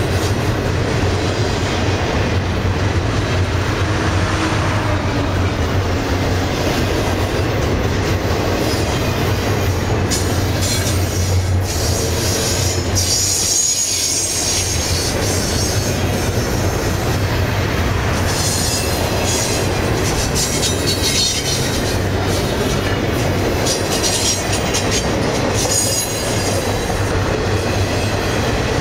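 CSX double-stack intermodal freight train rolling past: a steady low rumble of wheels on rail. From about ten seconds in, high-pitched wheel squeal comes and goes.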